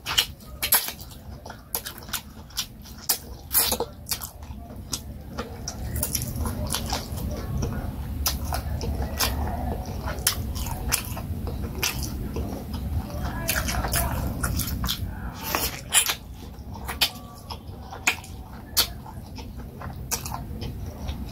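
Chewing and biting turkey-wing meat, with frequent wet lip smacks and mouth clicks scattered throughout.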